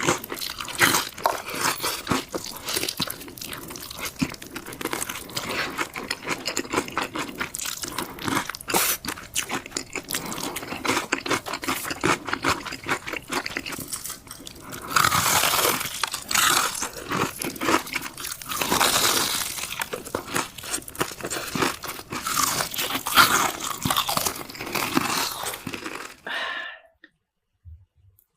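Close-miked crunching and chewing of crisp food, a dense run of crackling bites and crunches that stops abruptly near the end.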